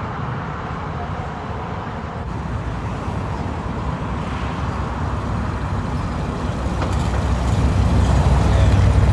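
A car engine running with a low rumble, growing louder near the end as it comes closer.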